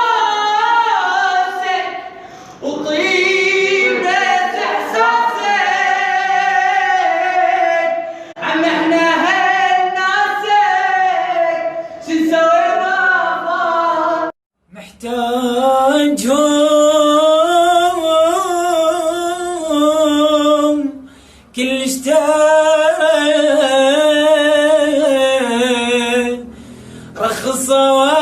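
Unaccompanied Iraqi-style singing: one voice holding long, wavering, ornamented notes in phrases of a few seconds. There is a brief break about halfway through, after which the singing goes on.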